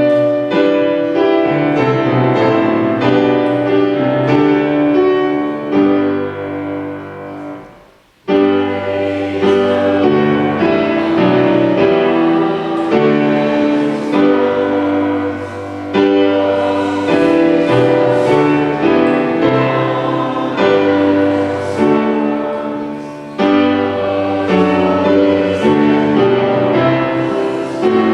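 Piano playing a hymn tune in held chords. It breaks off briefly about eight seconds in, then starts again.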